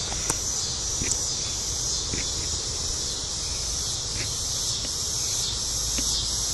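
Steady high-pitched chorus of night-singing crickets, with a few faint clicks.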